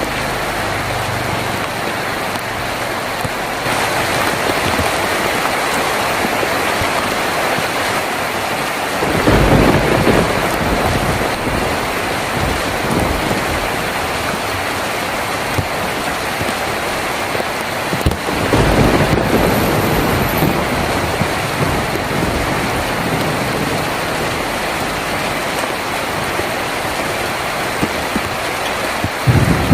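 Heavy rain drumming steadily on a tin roof, with low rumbles of thunder swelling up twice, about nine and eighteen seconds in, and again near the end.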